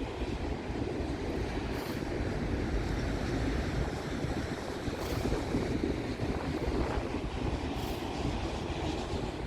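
Freight train cars rolling past with a steady low rumble of wheels on rail and a faint click every few seconds.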